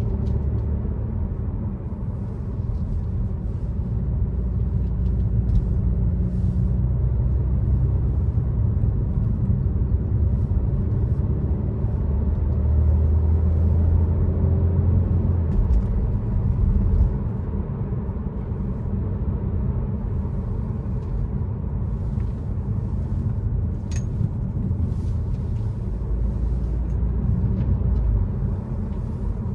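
BMW F30 330i with an aftermarket exhaust driving on the road: a continuous low exhaust drone and road rumble. It swells louder for a few seconds near the middle and again near the end. A single short click sounds once, late on.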